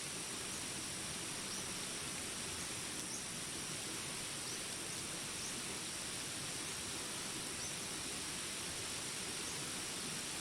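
Steady rain hiss over jungle ambience, with a high, constant insect drone and short, faint high chirps every second or so.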